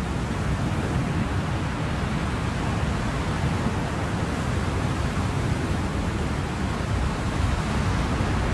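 Ocean surf: a steady, even rush of waves with no separate swells or breaks standing out.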